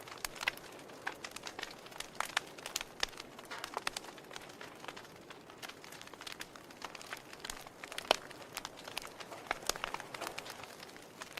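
Wood fire burning in a fireplace, the logs crackling with irregular sharp pops and snaps over a soft steady hiss. The loudest pop comes about eight seconds in.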